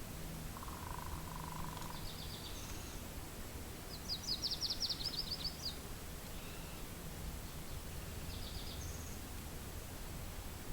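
Songbirds calling over a steady low rush of wind. About four seconds in comes the loudest phrase, a rapid trill of about a dozen quick high notes. Shorter high phrases come around two seconds and again near the end, and a lower warbling call sounds near the start.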